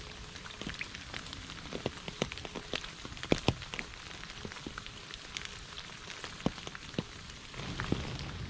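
Heavy rain falling: a steady hiss with many irregular sharp ticks of individual drops striking close by, growing slightly fuller near the end.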